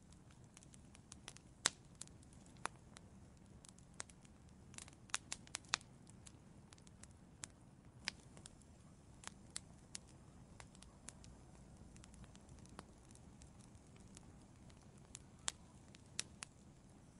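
Outdoor wood fire crackling: irregular sharp pops and snaps from the burning logs over a quiet low rumble of the flames, with a small cluster of pops about five seconds in.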